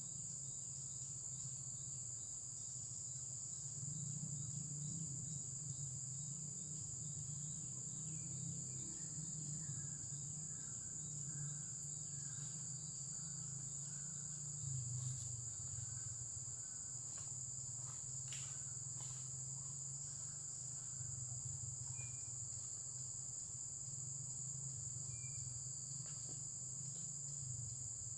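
Insects, crickets by their sound, calling in a steady high continuous trill, over a low uneven rumble.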